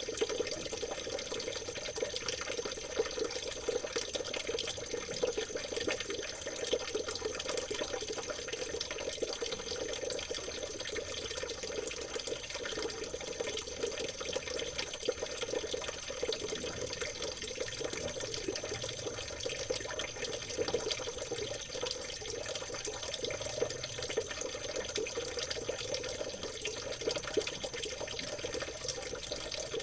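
River water babbling and trickling steadily.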